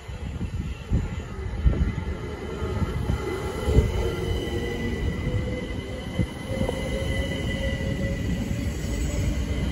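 Southern Class 377 Electrostar electric multiple unit running into the platform and slowing, with a low rumble and a few sharp knocks from the wheels. From about three seconds in, a steady high-pitched squeal from the wheels and brakes joins in.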